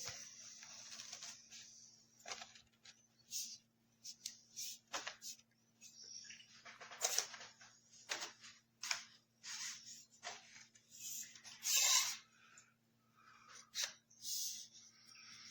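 Irregular rustling, scraping and clicking of objects being handled, in short bursts a second or so apart, over a faint steady low hum.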